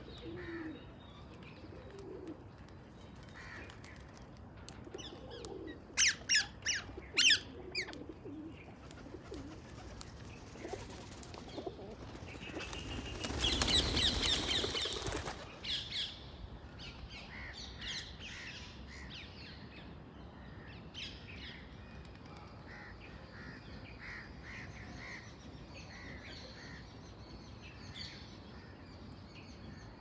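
Wild birds calling outdoors. Low dove-like coos come near the start, then a quick series of loud, sharp chirps about six seconds in. A noisy flutter like wingbeats lasts about three seconds, from about thirteen seconds in, followed by scattered soft chirps.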